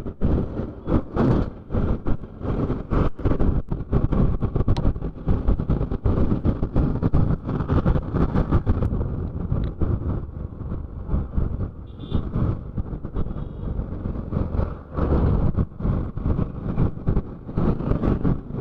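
Wind buffeting a motorcycle rider's helmet microphone at road speed, a choppy, irregular rushing noise, with the motorcycle's running and road noise underneath.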